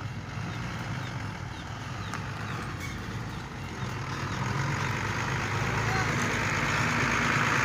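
Heavy diesel machinery running with a steady low engine hum, the noise swelling louder over the last few seconds.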